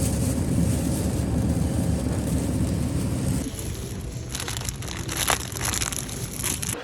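Steady low rumble of a car in motion. About halfway through it cuts to a lighter hiss with scattered clicks and rustling.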